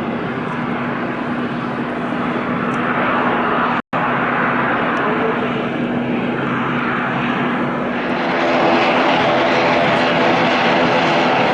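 Airliner engines running at an airport, a steady loud rush. It cuts out for an instant about four seconds in, then grows louder with a pitched whine from about eight seconds in.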